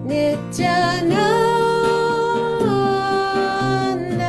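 Kirtan chant singing: one voice draws out a single long note of the chant, sliding up about a second in and stepping down about halfway through, over a steadily strummed acoustic guitar.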